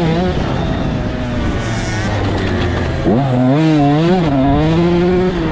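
Dirt bike engines on a motocross track. A bike runs at a fairly steady pitch, then about three seconds in another bike revs up close by, its pitch rising and wavering with the throttle.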